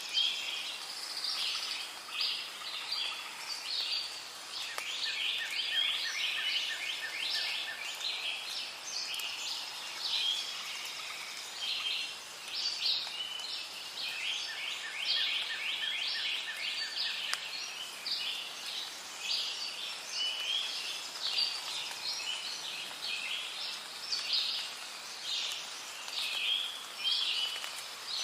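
Rainforest bird chorus: many birds chirping and calling over one another continuously, with a rapid run of lower repeated notes heard twice, over a faint steady background hiss.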